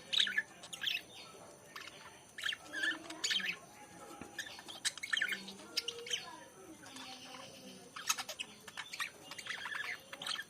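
Lovebirds chirping: a run of short, high, sharp chirps and squeaks, coming in irregular clusters throughout.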